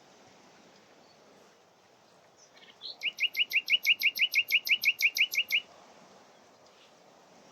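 Nightingale singing one rapid, loud phrase of about eighteen repeated short notes, roughly seven a second, starting about three seconds in and lasting about two and a half seconds.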